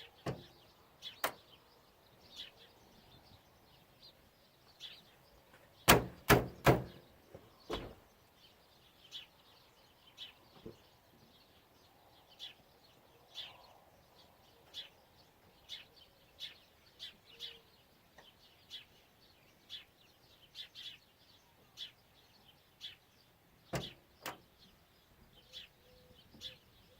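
A bird chirping over and over in short high notes, about once a second, with a few sharp knocks and a loud cluster of knocks and clatter about six seconds in.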